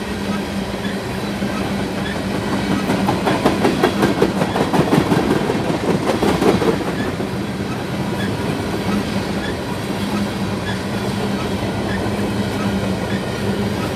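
Freight train cars rolling past at speed, a steady rumble with a low hum under it; between about three and seven seconds in, a quick run of wheel clicks over rail joints makes it loudest.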